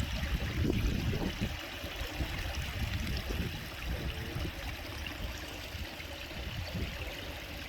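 Water flowing steadily.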